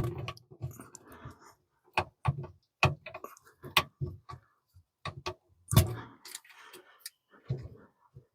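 Irregular clicks and knocks of hand tools on metal as a stubborn, rusted part is worked loose on an old truck, with a few duller thuds among them.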